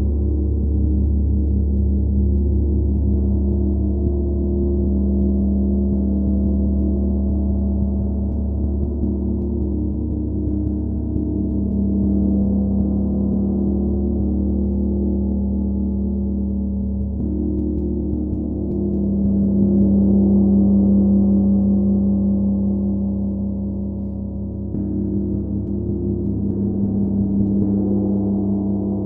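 Gong played softly for a sustained low wash of overlapping humming tones, with no distinct strikes, swelling louder about two-thirds of the way through.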